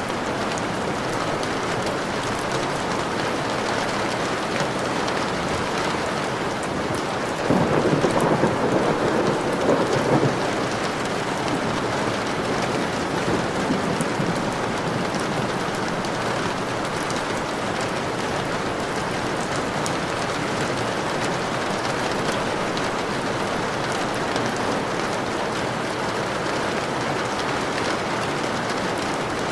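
Steady rain, with a rumble of thunder about seven seconds in that lasts about three seconds.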